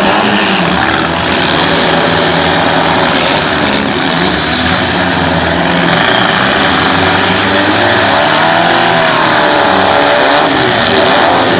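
Demolition derby cars' engines running and revving loudly together, the pitch wavering up and down in the second half.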